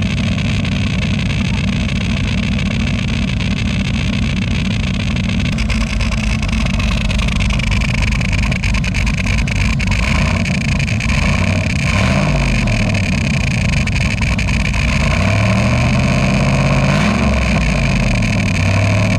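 Chevrolet Caprice V8 running with a duck call stuffed in its exhaust pipe, steady at first, then revved several times in the second half with the pitch rising and falling. A steady high tone from the duck call sits over the exhaust note.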